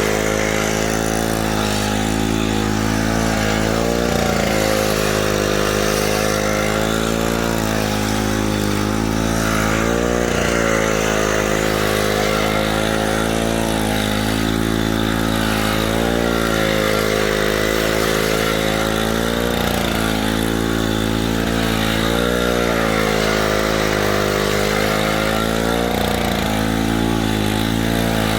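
An engine running steadily under load, its note sagging briefly and recovering every several seconds.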